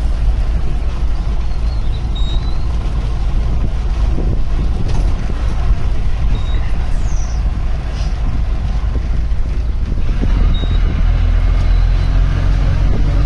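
Safari vehicle's engine running with a steady low rumble and road noise as it drives along. The engine note rises into a clearer hum near the end.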